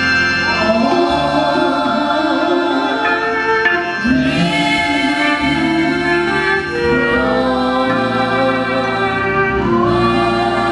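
A choir singing gospel music over electronic organ accompaniment in sustained, held phrases, with new phrases starting about four and ten seconds in.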